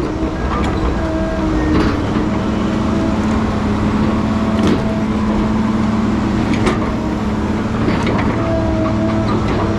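Heavy diesel logging machinery running steadily under load, with scattered metallic clanks and short whining tones that come and go every second or so.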